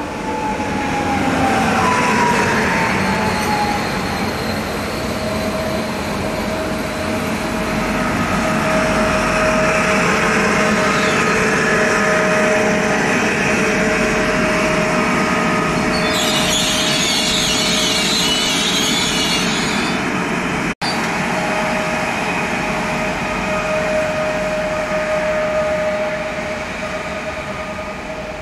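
The gold-liveried 'Złoty pociąg' electric multiple unit running along the platform: a steady electric whine over wheel-and-rail rumble, with tones falling in pitch in the first few seconds. A loud hiss comes in for about four seconds past the middle, and the sound cuts out for an instant shortly after.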